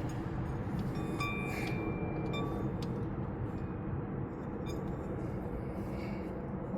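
Light metallic clinks of a hand tool against metal, one ringing briefly about a second in, over a steady low rumble.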